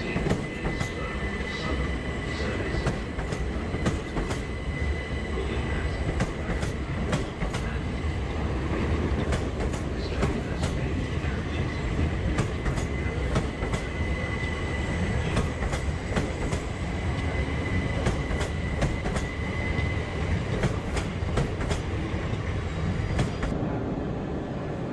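Southern Class 377 Electrostar electric multiple unit pulling out along the platform, its wheels clicking and knocking over rail joints and pointwork above a steady rumble. A thin, steady high squeal from the wheels runs along with it and fades out near the end.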